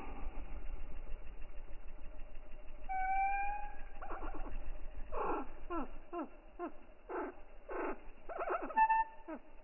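An animal calling: a short pitched call with a slight upward slide about three seconds in, then a run of quick falling calls, and another short pitched call near the end, over a low hum that fades about halfway through.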